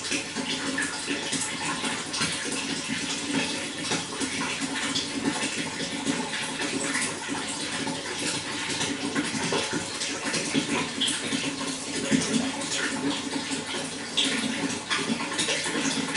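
Running water flowing and splashing steadily, full of small gurgles and drips.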